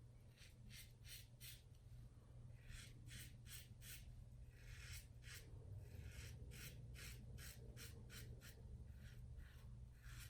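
Faint scraping of a stainless steel safety razor with a Voskhod double-edge blade cutting stubble through lather, in short quick strokes of about two or three a second with brief pauses between runs.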